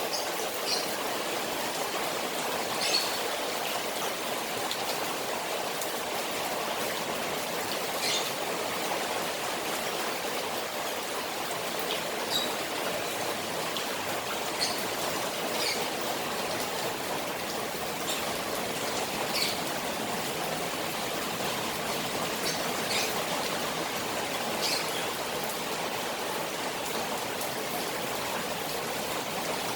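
Rain falling steadily on a koi pond, an even watery rush with a dozen or so sharper drips and splashes scattered through it.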